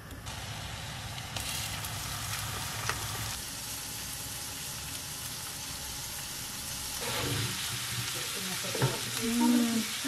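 Strips of meat sizzling as they fry in butter in a non-stick frying pan, growing louder about a second and a half in, and turned over with a fork later on.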